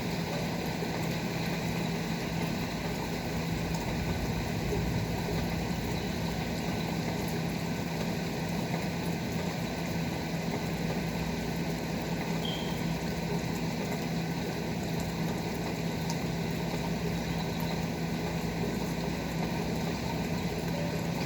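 Steady rain falling, an even hiss, with a constant low hum underneath.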